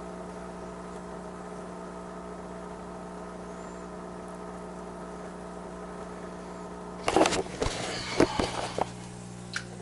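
A steady mechanical hum with a constant low tone. About seven seconds in, a couple of seconds of sharp knocks and rustling handling noise, then a single click near the end.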